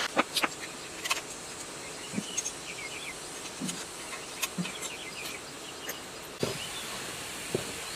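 Scattered light clicks and a few short knocks from hand work on a water-damaged tiller's metal parts, with faint bird chirps in the background.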